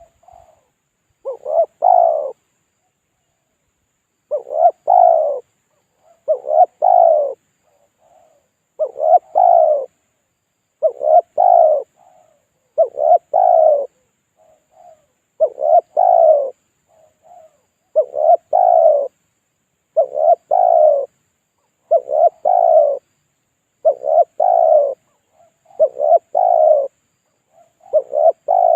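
Spotted dove (tekukur) cooing over and over, about one call every two seconds; each call is a faint short note followed by a louder two-part coo. It is a lure (pikat) call used to draw wild doves in.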